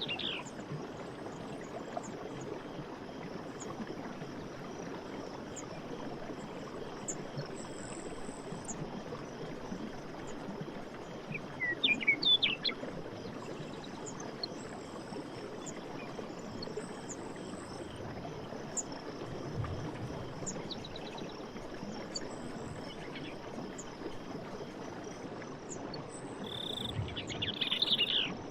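Night forest soundscape: a steady hiss of insects with short high chirps recurring throughout. There is a brief burst of quick, sliding animal calls about twelve seconds in, the loudest moment, and another near the end.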